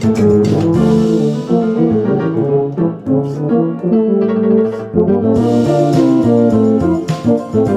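Tuba playing a moving melodic line with piano accompaniment.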